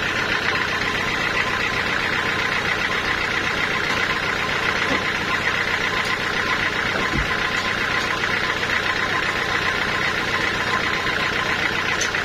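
Sawmill machinery running steadily, a dense even mechanical noise with a couple of faint knocks partway through.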